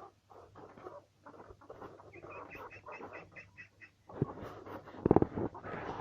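Poultry calling: a quick run of about ten high peeps about two seconds in, amid scattered short clucks, and a louder harsh call about five seconds in.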